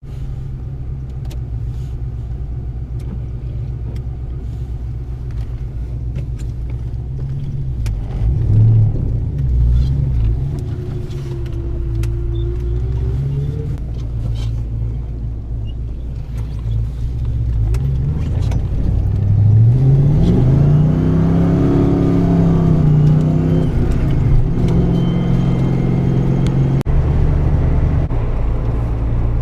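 1987 Ford Mustang GT's 5.0-litre V8 running steadily at low revs, then revved up and down several times in the second half, pitch rising and falling and getting louder.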